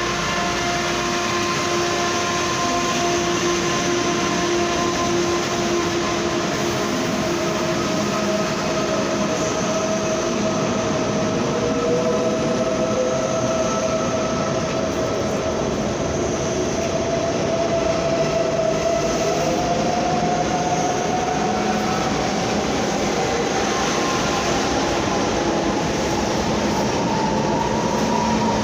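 Train running through the station: a steady rumble of wheels on rails with a whine that rises in pitch over the second half.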